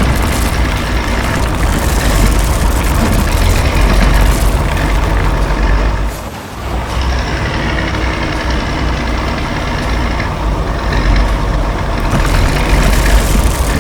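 Heavy construction-vehicle engine running loud and steady, with a short drop in level about six seconds in before it picks up again.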